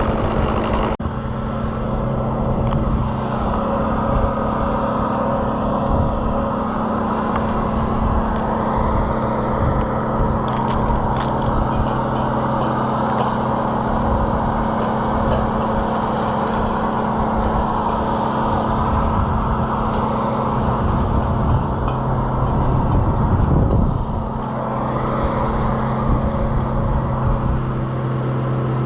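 An engine running steadily at a constant pitch, with scattered light clicks; it swells briefly and then drops a little about three-quarters of the way through.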